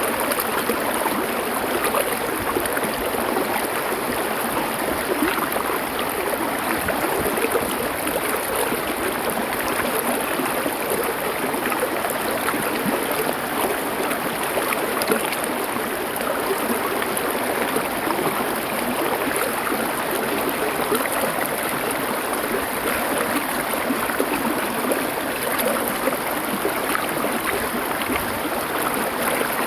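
A stream of water flowing over stones, a steady, even sound with no pauses or sudden events.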